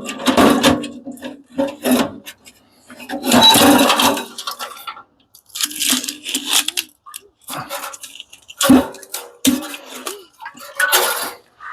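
Metal parts of a commercial coffee machine clattering and clanking as it is taken apart, a string of irregular knocks and rattles, some ringing briefly like struck sheet metal.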